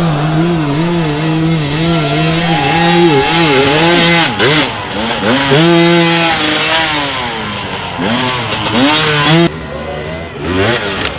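Dirt bike engine revving hard with the throttle worked on and off, its pitch wavering quickly, then several rising and falling revs.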